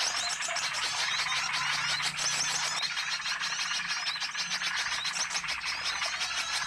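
Lure recording of many small birds chirping and twittering at once, a dense, busy chorus of overlapping high calls, with a faint low hum underneath.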